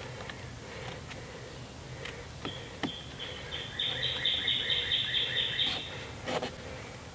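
A songbird singing a quick series of repeated chirps, about four a second, for roughly three seconds in the middle. A few sharp knocks come from the log wall being worked on.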